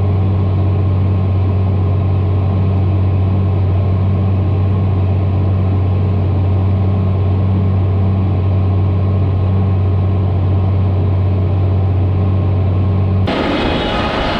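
John Deere tractor engine running at a steady speed, a deep even drone. About a second before the end it changes abruptly to a rougher, noisier rumble.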